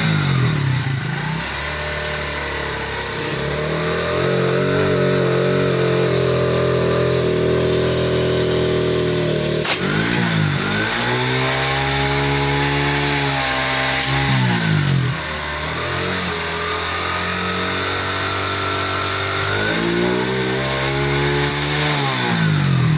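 Motorcycle engine running and revved up and down a few times, pumping air through a hose and nozzle into a flat inner tube. A single sharp click comes about ten seconds in.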